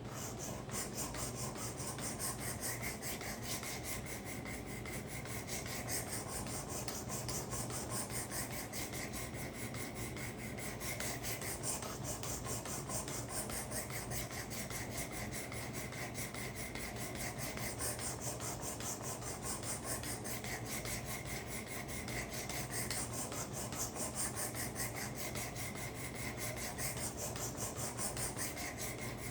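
A 400-grit abrasive stone on a Work Sharp guided sharpening system stroked rapidly and continuously along a karambit's edge, a steady rasping scrape. This is the 400-grit refining step after coarser grits set the edge profile and raised a burr.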